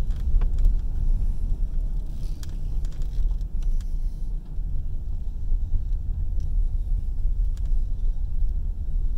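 Car driving slowly, a steady low rumble of engine and tyres heard from inside the cabin, with a few faint clicks.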